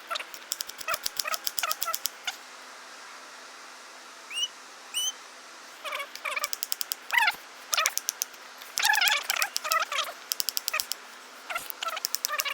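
Squirrel chattering: repeated bursts of rapid clicking trills mixed with squeaky chirps, with two short rising squeaks near the middle.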